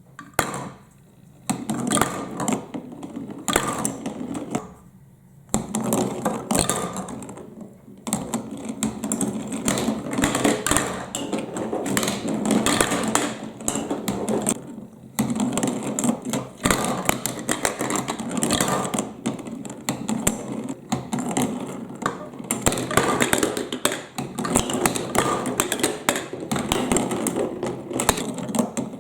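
Marbles rolling and clacking down a plastic building-block and magnet-tile marble run, a dense rattling of many small hard clicks with a few short lulls.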